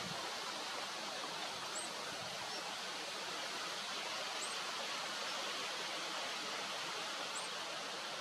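Steady outdoor hiss, with three brief high chirps about three seconds apart.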